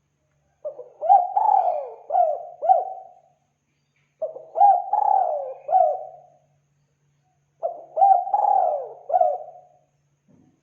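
Spotted dove (tekukur) cooing in three repeated phrases, each of about four coos, with a pause of about a second between phrases. It is the bird's call played as a lure.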